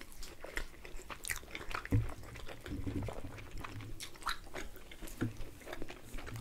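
Close-miked chewing and biting of pizza, with crisp crackles of crust and wet mouth clicks. A low bump about two seconds in is the loudest sound.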